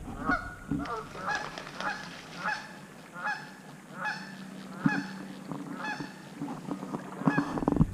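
A goose honking repeatedly, about nine short calls a little under a second apart.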